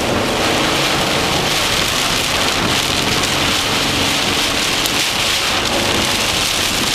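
Heavy thunderstorm rain pelting a moving car, heard from inside as a loud steady hiss, with the car's engine and road noise running low underneath.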